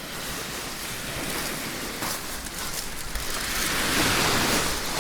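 Sea waves washing onto a beach, one wave swelling louder about three and a half seconds in and then easing off.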